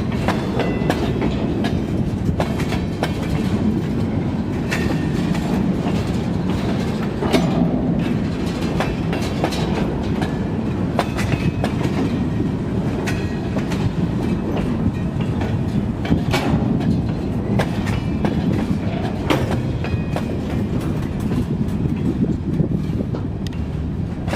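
Freight cars rolling slowly past: a steady rumble of steel wheels on rail, with scattered clacks and knocks and a few brief metallic squeaks.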